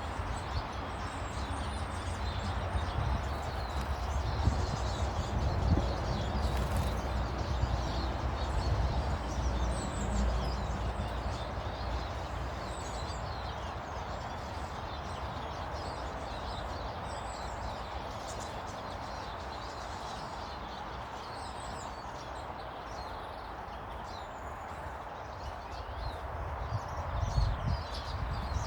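Many small garden birds chirping and calling at once over a steady hiss, with a low rumble that swells in the first ten seconds and again near the end.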